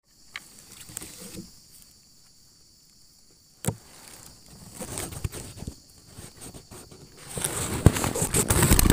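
Insects chirring steadily, with scattered knocks and rustling that grows louder near the end.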